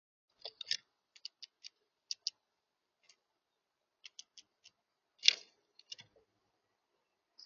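Birds at a feeder: a scattered run of short, sharp ticks and clicks, with one louder knock about five seconds in.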